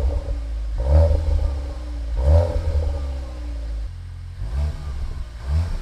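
Cupra Ateca's 2.0 TSI EA888 turbocharged four-cylinder, with an Akrapovič exhaust, running and being blipped in short revs, each rising and falling back to idle. The three strongest revs come in the first half. About four seconds in the exhaust note drops in level and the later blips are softer.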